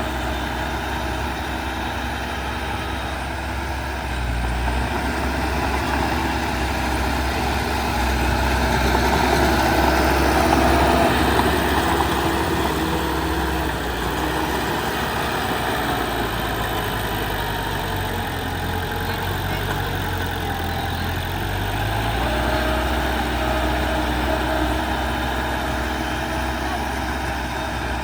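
Diesel engines of heavy earthmoving machinery (bulldozer and dump trucks) running steadily, louder for a few seconds about a third of the way in and again near the end as the engine note shifts.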